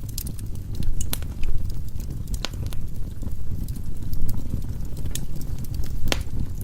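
Firewood logs burning in a fireplace: a steady low rumble of flame with sharp crackles and pops at irregular moments, the clearest about a second, two and a half and six seconds in.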